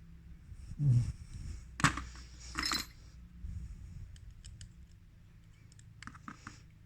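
Small hard parts of a CD player mechanism being handled: a dull knock about a second in, a sharp click, then a short bright rattle, followed by a few faint ticks.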